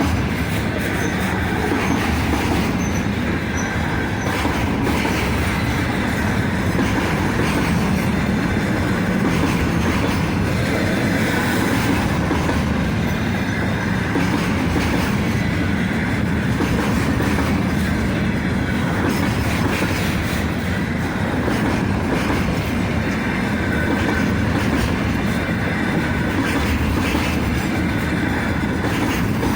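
Freight train wagons rolling by: a steady rumble of wheels on the rails, with repeated clacks over rail joints and a faint wheel squeal.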